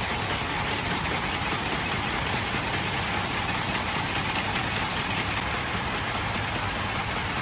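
Factory machinery running steadily, with a fast, even clatter of many strokes a second.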